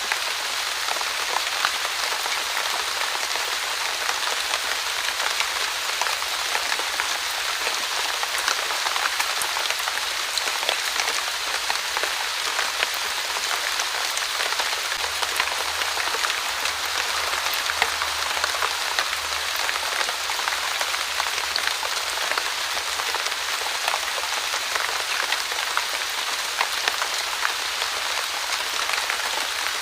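Light, steady rain falling on a surface, a continuous hiss dotted with the small ticks of individual drops.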